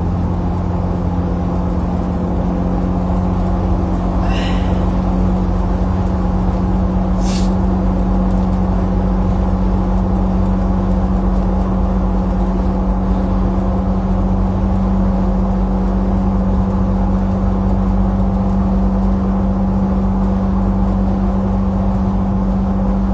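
Steady low drone of a car in motion heard from inside the cabin, with a constant hum. Two brief high-pitched sounds come about four and seven seconds in.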